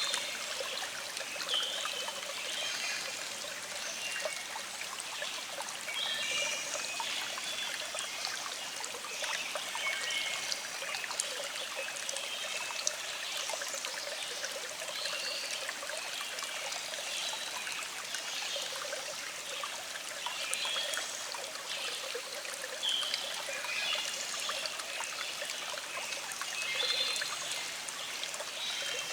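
Small stream flowing with a steady trickle, with birds chirping in short calls in the background.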